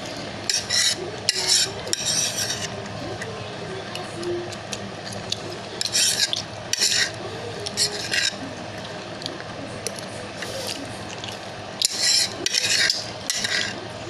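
Cutlery scraping and stirring noodles in a bowl while eating, in about a dozen short scrapes scattered through the stretch, bunched near the start, in the middle and near the end.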